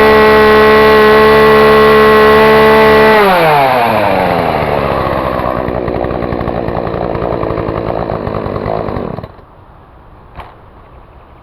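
Chainsaw running at high revs, then the throttle is let off and the revs fall away to a rough idle, and about nine seconds in the engine is switched off. A single click follows about a second later.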